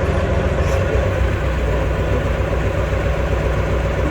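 Heavy truck engine running steadily, a low, even rumble.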